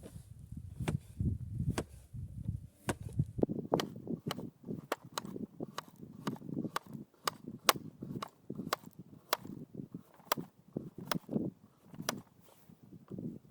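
A series of sharp chopping strikes with a blade, about two a second and a little uneven, each a crisp click over a dull thud.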